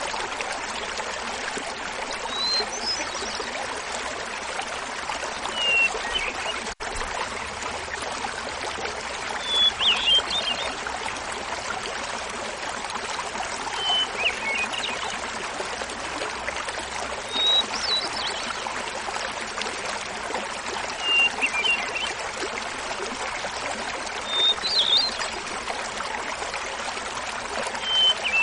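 Small mountain waterfall babbling steadily, with a hermit thrush singing over it: about eight short flute-like phrases, each a held opening note followed by a quick flutter, given every three to four seconds at shifting pitches. The sound cuts out for an instant about seven seconds in.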